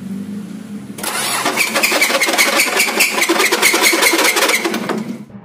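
Mitsubishi Pajero's 4D56 diesel engine running with a loud, rapid metallic knocking that starts suddenly about a second in and stops abruptly near the end: the sign of a loose No. 1 connecting-rod bearing.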